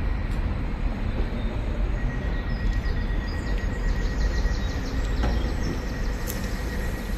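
Train running through the station: a steady low rumble with a faint, steady high tone above it and a few faint squeaks in the middle.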